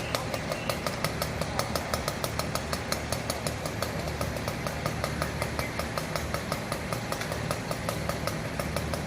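Fire truck's diesel engine idling, with a steady rapid ticking of about five clicks a second over the hum.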